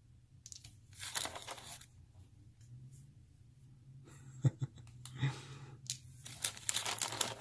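Plastic packaging rustling and crinkling, with tearing, as game pieces are unpacked by hand, plus a few sharp clicks a little past the middle.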